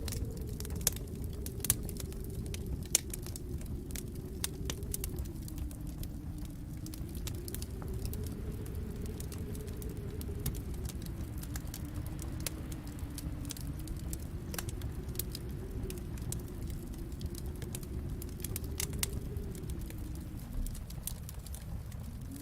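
Wood fire in a fireplace crackling, with scattered sharp pops and snaps over a steady low rumble that slowly swells and ebbs.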